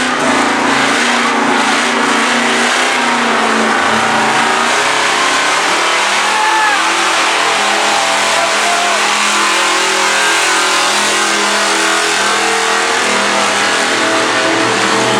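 A 1968 Ford pickup truck's engine running loud at high revs under heavy load in a truck pull, its pitch wavering as it drags the weight-transfer sled.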